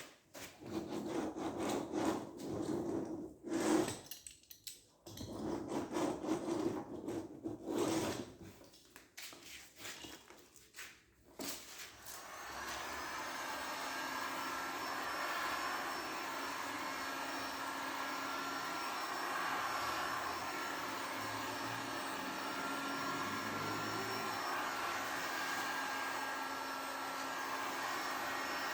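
Irregular rubbing or scraping strokes on the boat's rubber for about twelve seconds, in work on gluing an inflatable boat's side strake. Then a small electric blower motor starts and runs steadily with a faint whine.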